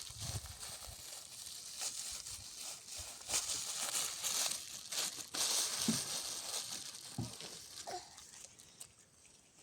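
Irregular rustling and crackling of dry brush and twigs being handled, dying away near the end.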